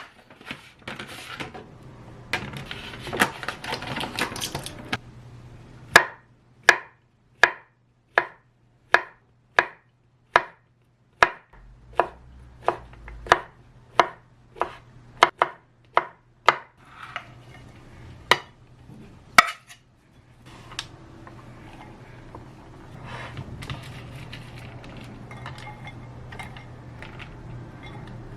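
Kitchen knife chopping on a cutting board: a steady run of about fifteen strokes, a little more than one a second, after some rustling. It ends with a couple of louder knocks and then light kitchen clatter over a low hum.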